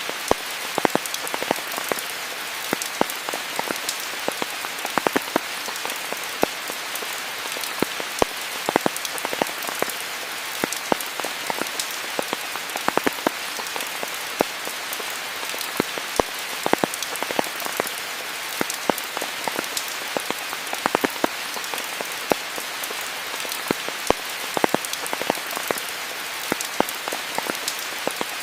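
Steady rain falling on foliage, an even hiss with many close, irregular drips and drop impacts.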